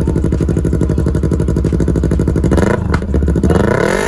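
Motorcycle engine with an aftermarket muffler idling, then revved about three seconds in, the pitch climbing to a peak near the end.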